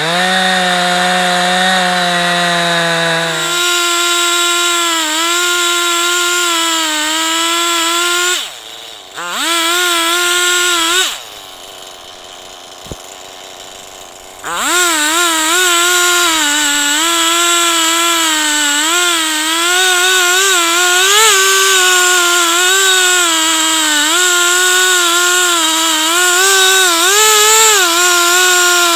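Two-stroke chainsaw on an Alaskan-style chainsaw mill running at full throttle, ripping a log into planks, its pitch wavering as the cut loads it. About eight seconds in the throttle drops, blips once and falls to idle for a few seconds, then the saw goes back to full throttle and cuts on.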